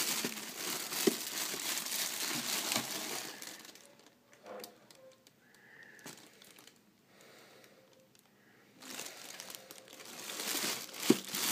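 Packaging rustling and crinkling as the fan heater is unpacked, stopping for several seconds in the middle and starting again near the end.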